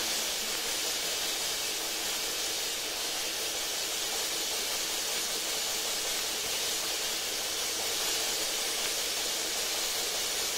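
A steady, even hiss of noise with no voices, beat or tune in it, unchanging throughout.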